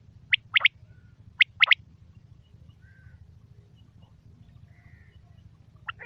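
Quail calling: two quick calls of sharp, high notes, each a rapid pair, about a second apart in the first two seconds, then a few faint chirps over a steady low hum.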